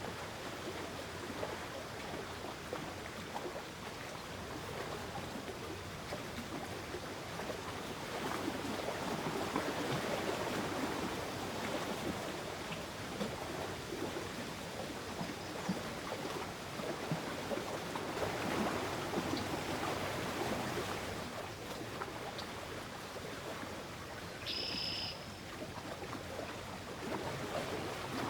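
Water rushing with a steady, swelling noise. A brief high-pitched call sounds once near the end.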